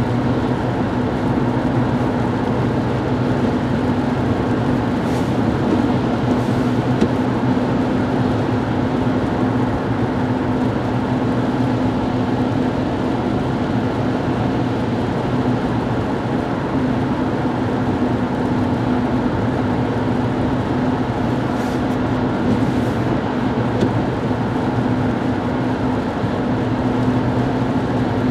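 Steady road noise of a car driving at highway speed, heard from inside the cabin: an even rush of tyre and engine noise with a low steady hum, and a few faint passing hisses.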